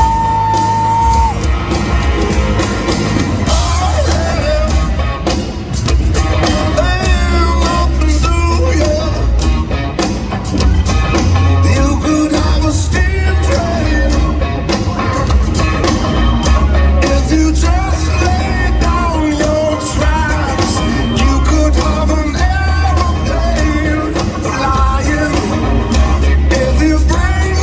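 Rock band playing live with a sung lead vocal over heavy bass and drums. A long held high note ends about a second in.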